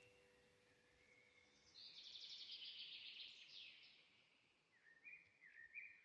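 Faint bird song: a high trill about two seconds in, then a run of short repeated chirping notes near the end.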